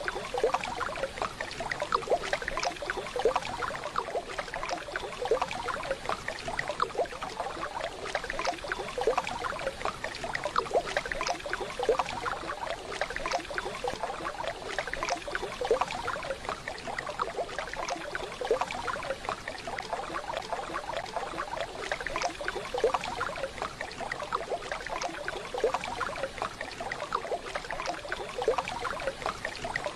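Waterfall water running and splashing steadily, a dense patter of small splashes.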